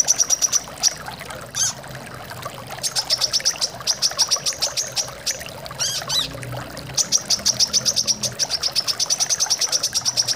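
Brown-throated sunbird singing in runs of rapid, high chips, about nine a second, broken by a couple of downward-swooping notes, over a steady sound of running water.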